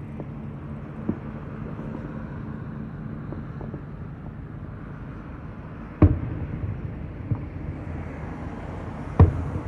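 Fireworks shells bursting: two sharp booms about three seconds apart, the second near the end, with a few fainter pops, over a steady low rumble of background noise.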